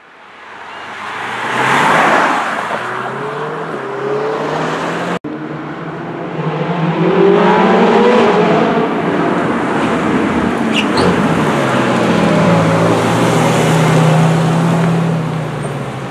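Sports car engines accelerating hard as the cars pass, the pitch climbing through the gears, with a loud pass-by about two seconds in. The sound breaks off sharply about five seconds in, then more engines rev up and hold a steady high-revving note near the end.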